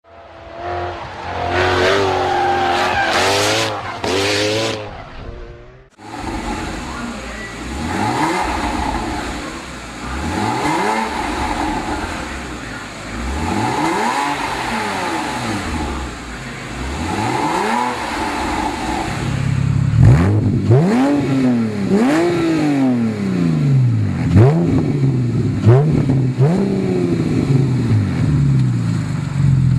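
Porsche Cayman R's 3.4-litre flat-six through a Fabspeed Maxflo race exhaust, revving. Long rises and falls in pitch come every three to four seconds, then quicker, louder blips from about twenty seconds in. The opening few seconds are a separate passage that cuts off suddenly about six seconds in.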